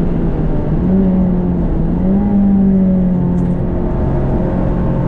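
Renault Clio 197 Cup's 2.0-litre four-cylinder engine running hard on track, its pitch dipping and climbing again a couple of times and then falling about three and a half seconds in, over a heavy low rumble of road and wind noise.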